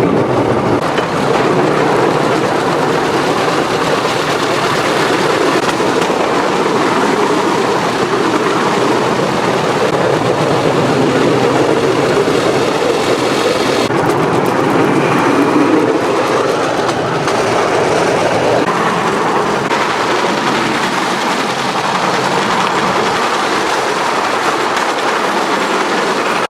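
Bamboo train (norry) running along the rails: a steady, loud clatter of the platform and wheels on the track.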